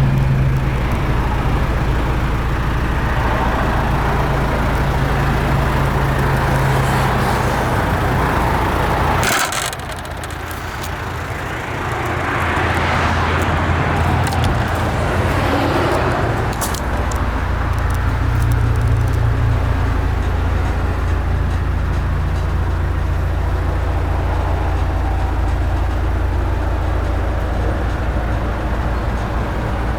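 Land Rover Defender's 300Tdi turbodiesel engine running with a steady low drone. About nine seconds in comes a sharp knock, after which the low drone drops away for several seconds and then returns steadily.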